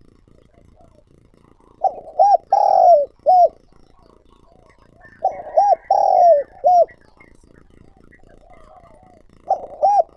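Spotted dove cooing its call three times, about every three and a half seconds. Each phrase is two short coos, a longer falling coo and a short closing coo; the third phrase begins near the end.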